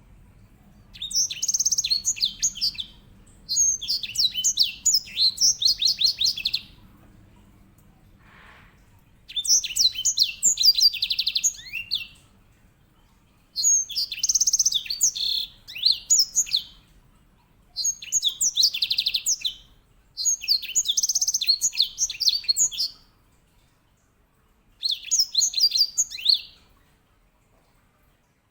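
Grey singing finch (edel sanger, Serinus leucopygius) singing loud, high-pitched song phrases full of fast rolling trills, seven phrases in all with short pauses between them.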